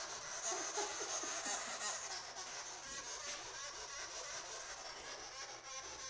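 Sugar glider crabbing: a rapid, rasping, chattering buzz, the defensive call of an angry, stressed glider being handled. It is a little louder in the first couple of seconds.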